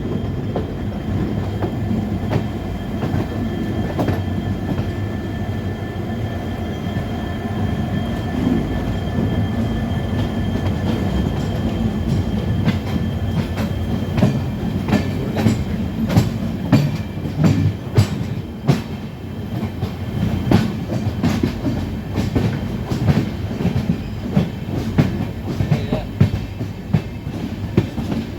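Diesel locomotive train running, a steady low hum of the engine and rolling stock, with a rapid, irregular clatter of sharp knocks from the wheels on the track starting about halfway through.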